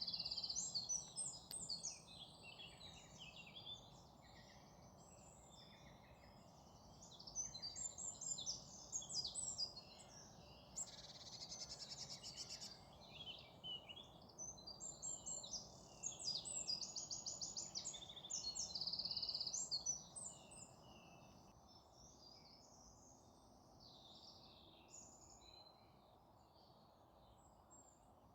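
Several small birds chirping and trilling together in quick, overlapping calls, in busy bursts that thin out to scattered calls about twenty seconds in, over a steady low background noise.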